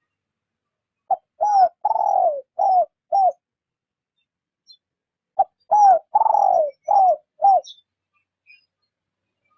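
Spotted dove cooing, the lure call of a decoy dove: two phrases of about five low coos each, a short note, then a longer falling coo in the middle, then two more.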